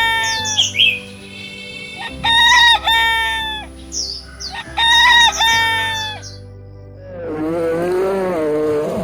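Rooster crowing repeatedly, a call about every two and a half seconds, with small birds chirping between crows over soft background music. From about seven seconds in, a lower, wavering call takes over.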